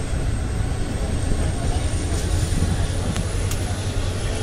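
Passenger train running, heard from on board: a steady rumble with a thin high whine, and a few faint ticks from the track.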